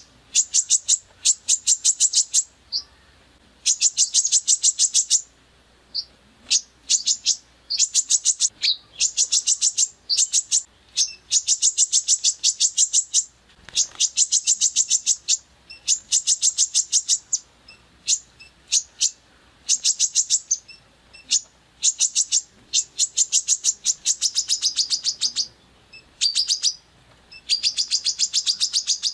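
Songbird singing in rapid-fire bursts of sharp, rattling repeated notes, the rough "tembakan" phrases used in bird-training master recordings. Each burst lasts about a second, and the bursts repeat with short pauses and a few single chirps between them.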